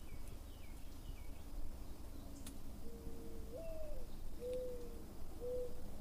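A bird's low hooting calls: one long call that bends up in pitch and falls back, then three shorter ones in the second half. Faint high chirps come in the first second or so.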